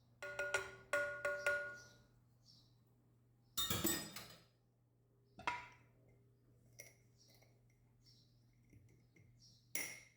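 Kitchenware clinking: about five quick ringing clinks of hard glass or ceramic in the first two seconds. A louder rustling clatter follows about four seconds in, then a few single knocks.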